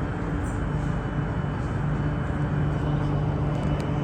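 MTR Q-Train running at steady speed: an even rumble with a steady low hum and a faint high whine.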